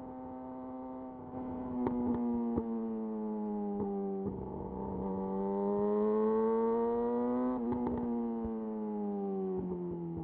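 Yamaha YZF-R6's inline-four running through a de-catted Akrapovic slip-on exhaust while riding. The engine note sags slightly, rises gently to its loudest about three-quarters of the way in, then falls steadily as the throttle closes. A few sharp ticks or pops come through along the way.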